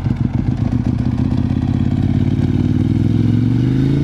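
2009 Ducati 1198's L-twin engine through a Termignoni exhaust, under way. The exhaust note is choppy at first, then pulls smoothly with pitch rising gradually for about three seconds, and drops suddenly at the very end.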